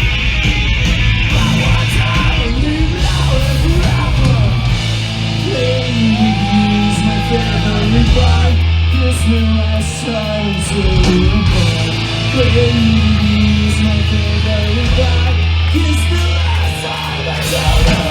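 A live punk/emo band playing loud: distorted electric guitars, heavy bass and drums, with yelled and sung vocals coming in about five seconds in.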